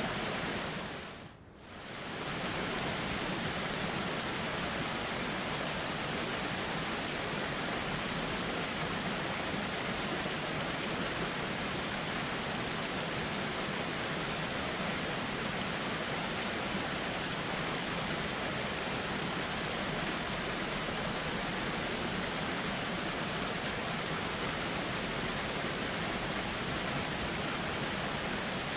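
River water flowing steadily, an even rushing sound. It fades out and back in briefly about a second and a half in.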